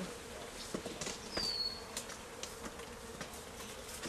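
Honey bee swarm buzzing, a steady hum of many bees stirred up after being shaken into a box, with faint scattered clicks of handling.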